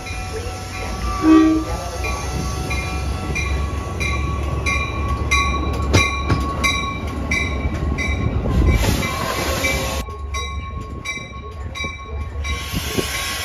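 Metra diesel commuter train passing with a steady low rumble, and a regular clicking about two or three times a second that starts about four seconds in and stops near the end.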